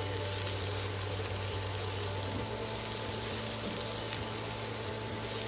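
Shredded cabbage and carrots with shrimp sizzling steadily in a hot pan as they are tossed with tongs, with a few faint clicks and a steady low hum underneath.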